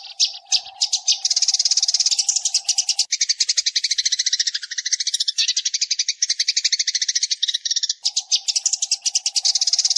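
Sparrows chattering on a decoy recording used to lure birds: a dense, rapid run of high chirps, many a second. A steady low hum runs under it, dropping out from about three to eight seconds in.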